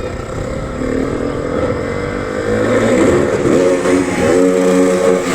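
Motocross bike engine revving hard, its pitch rising and falling with the throttle, then held steady at high revs near the end.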